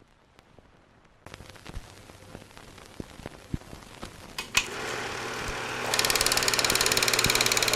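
A small machine: faint scattered clicks, a sharp click about four and a half seconds in, then a louder, steady mechanical clatter of rapid, evenly spaced ticks starting about six seconds in.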